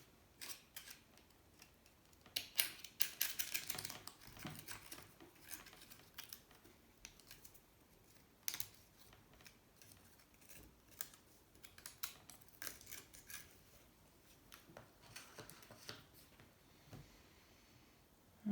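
Small clicks and taps of motorcycle engine parts being handled, with a quick run of rapid rattly clicking about three seconds in.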